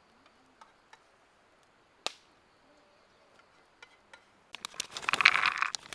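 Handling noises: a few faint clicks and one sharp click about two seconds in, then loud, dense crinkling of packaging starting near the end.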